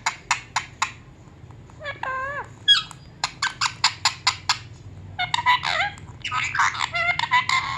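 Pet parrot chattering: runs of rapid clicking calls, about eight a second, a wavering call, then a stretch of harsh, squawky chatter near the end.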